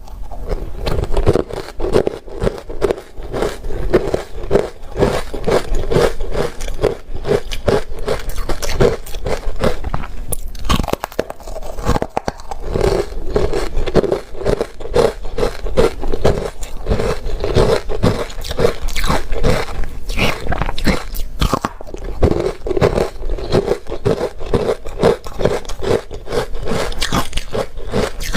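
Close-miked crunching and chewing of soft crunchy ice dusted with matcha powder, in rapid continuous crunches with a short pause about eleven seconds in.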